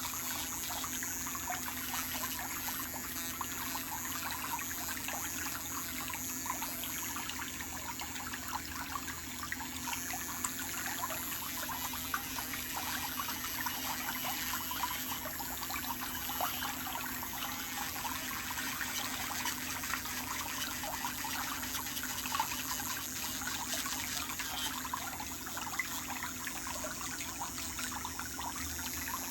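Water trickling and bubbling steadily, with many small irregular splashes and drips.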